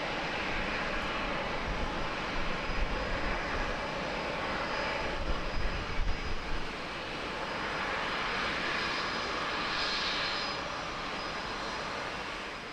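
Jet airliner engines running: a steady rush of engine noise with a faint high whine, swelling slightly a few times.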